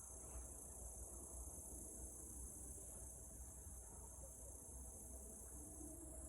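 Insects chirring in a steady, unbroken high trill, with a faint low rumble underneath.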